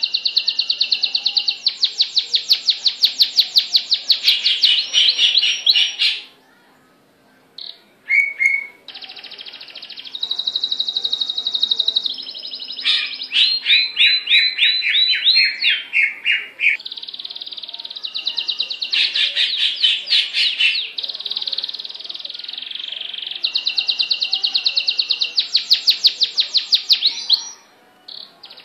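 A songbird singing long, varied phrases of rapid trills and rolling notes mixed with sustained high whistles. The song breaks off briefly about six seconds in, then carries on.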